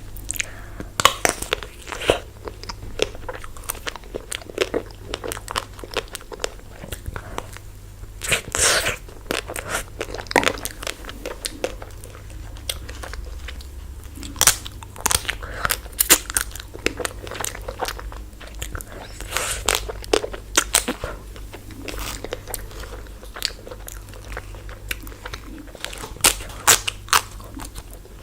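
Close-up biting and chewing of a chocolate-coated ice-cream bar: irregular sharp crunches and crackles as the hard coating breaks, with wet chewing between them.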